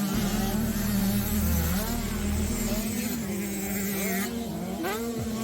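Several motocross bikes' engines buzzing on track, their pitch rising and falling as the riders work the throttle.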